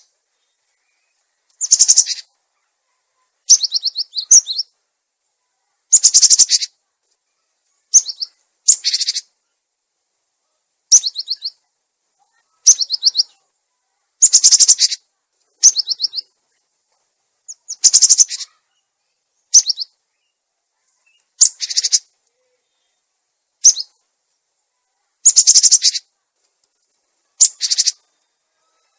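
Cinereous tit (gelatik batu) calling in short, rapid phrases of high chattering notes, repeated about every two seconds with clean gaps between: a lure-call recording for drawing in or tutoring these birds.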